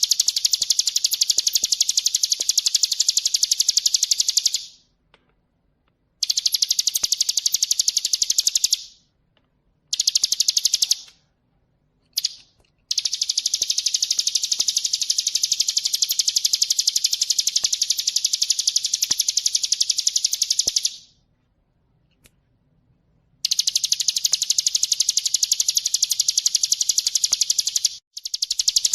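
Ciblek gunung (a prinia) singing a very fast, high-pitched rattling trill in long bouts of several seconds, with short pauses between bouts.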